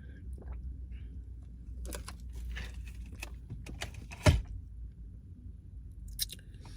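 Handling noises: a run of clicks and rustles, with one sharp knock about four seconds in, over a low steady rumble.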